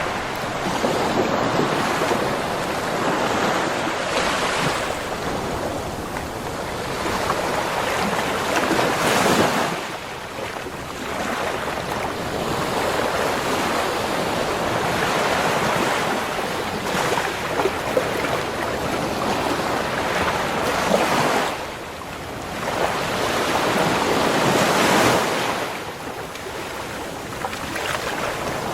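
Ocean waves breaking and washing up a beach shore, the surf swelling and falling away in surges every several seconds, loudest about nine seconds in and again near twenty-five seconds.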